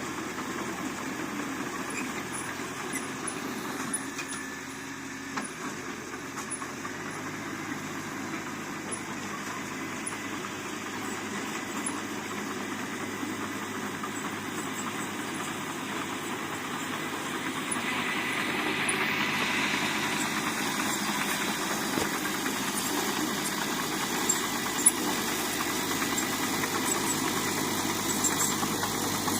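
Diesel engine of heavy earthmoving machinery running steadily. Its pitch shifts about seven seconds in, and it grows louder from about eighteen seconds in.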